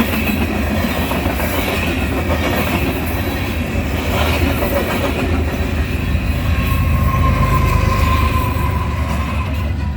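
Union Pacific freight train's cars rolling past, a steady loud rumble of wheels on rail, with a thin wheel squeal coming in over the second half.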